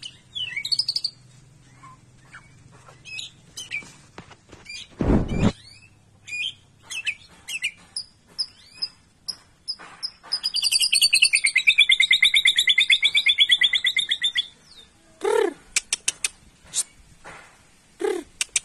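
White-rumped shama singing a varied song of sharp chirps and whistles, including a long rapid trill lasting about four seconds in the middle. A single loud thump comes about five seconds in.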